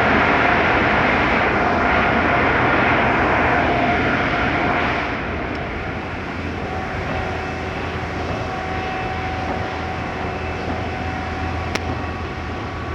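D&S Quicksilver automatic car wash running: a loud, steady rushing noise of its spray or blower equipment. It eases slightly about five seconds in.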